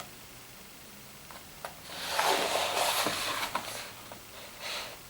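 Paper rustling with a few soft clicks for about two seconds, from about two seconds in, with a shorter rustle near the end: pages of a glossy paper catalogue being turned and handled.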